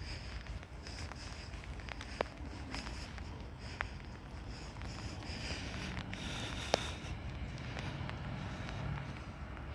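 Footsteps on a walk in steady rain, with three sharp taps.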